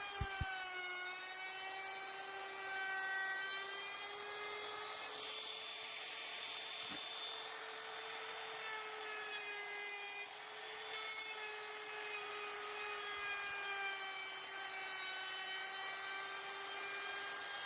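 Wood router running with a steady high whine while rounding over the edges of pine boards. Its pitch wavers slightly under load, and a cutting hiss is strongest about five to eight seconds in.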